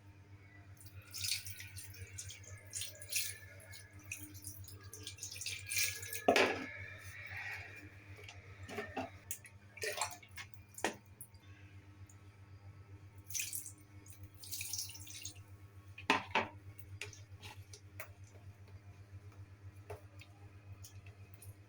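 Water splashing and dripping in short, irregular bursts with small clicks, over a steady low hum.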